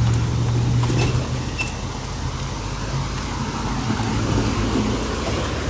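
Road traffic noise with a low vehicle engine hum that fades about a second in, then a steady rumble with a few faint clicks.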